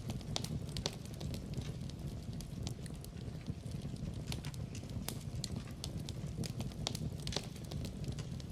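Wood fire burning, with irregular sharp crackles and pops over a steady low rumble of flames.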